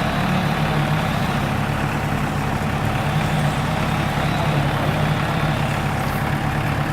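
Tractor engine running steadily at low revs, a constant low pulsing hum.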